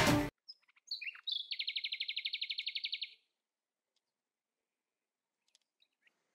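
The background music cuts off right at the start. About a second in, a bird chirps a couple of times, then gives a fast, even trill of about twelve notes a second lasting about a second and a half.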